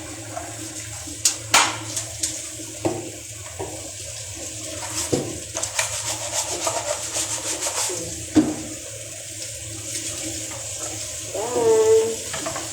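Water running steadily from a tap while plastic vacuum-cleaner parts are rinsed and handled, with scattered knocks and clicks. A short pitched sound comes near the end.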